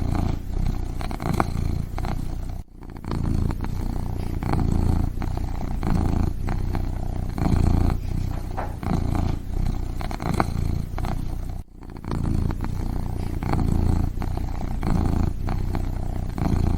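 Kitten purring: a continuous low rumble that swells and eases with each breath, in and out about once a second, broken by two brief pauses.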